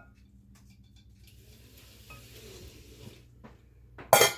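Soft scraping and stirring of a serving utensil in food, with a few light knocks, then one sharp clank of the utensil against a dish near the end.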